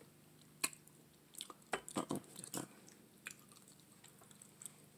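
Close-up eating sounds of curried neck bones: faint chewing with a scatter of short wet mouth clicks and smacks.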